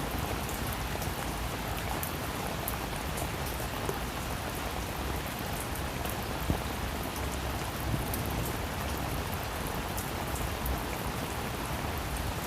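Steady rain falling on a roof, an even hiss with many fine drop ticks and a few louder single drips, one about six and a half seconds in.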